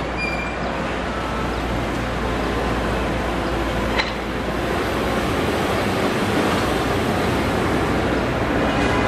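Rumble of an approaching passenger train hauled by an HXD3C electric locomotive, growing slowly louder as it nears. A single sharp click about four seconds in.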